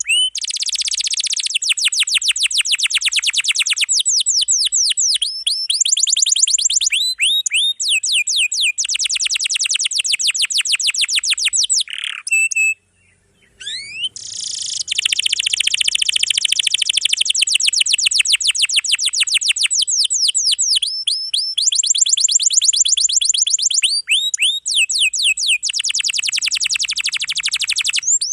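Domestic canary singing a dense, continuous song of long rolling trills: runs of very fast, evenly repeated high notes, one phrase after another, with a short break about halfway through.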